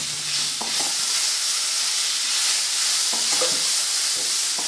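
Chopped tomatoes and browned onions sizzling in oil in a hot pan, a steady frying hiss, while a wooden spatula stirs them, with a few soft scrapes against the pan.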